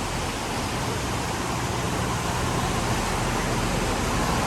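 Steady road traffic noise, cars driving on rain-flooded streets, growing slightly louder toward the end.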